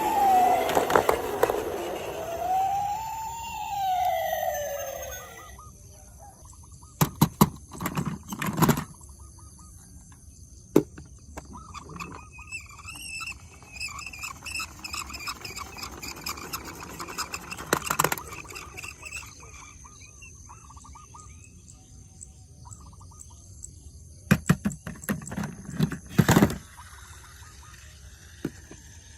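Toy police car or ambulance siren wailing up and down, stopping about five seconds in. Then bursts of sharp clattering knocks come in clusters, and a faint warbling chirp runs for several seconds in the middle.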